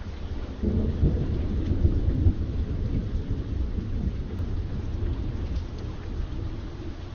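A low roll of thunder comes in about a second in, swells for a couple of seconds and slowly dies away, over steady rain.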